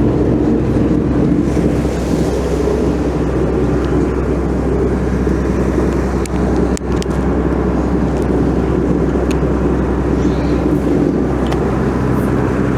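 Fishing boat's engine running steadily, a constant low hum under a wash of noise.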